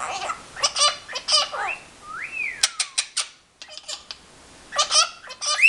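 Pet Hahn's macaws vocalizing in high-pitched chattering calls, with a whistle that rises then falls about two seconds in and a run of short sharp squawks after it.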